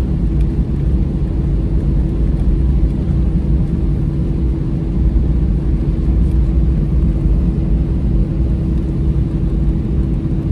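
Cabin noise of an Airbus A320-214 on the ground with its CFM56 engines running before takeoff: a steady low rumble with a constant hum.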